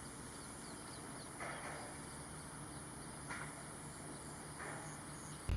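Steady high chirring of crickets in the grass, with three soft swishes of slow footsteps through the grass about a second and a half apart. A low rumble starts suddenly at the very end.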